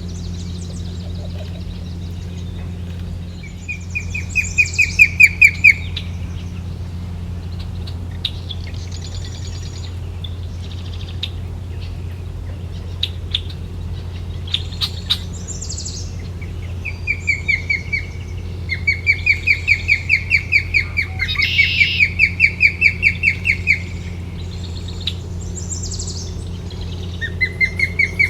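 A bird calling in repeated rapid series of short, high chirps, each series lasting one to a few seconds and rising slightly in pitch, over a steady low hum.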